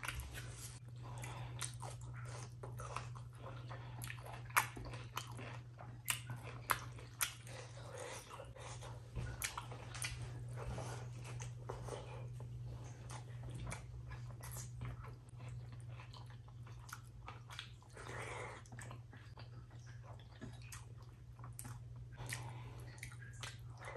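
Chewing of rice mixed with mashed potato and dal eaten by hand, full of sharp wet mouth clicks and smacks, with the soft squish of fingers mixing the food. A steady low hum runs underneath.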